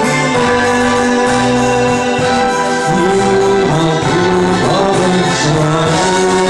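A romance song: a voice singing a held, gliding melody over instrumental accompaniment.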